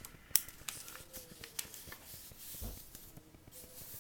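Sheet of paper being handled and folded by hand: soft rustling with scattered light ticks and one sharp click about a third of a second in.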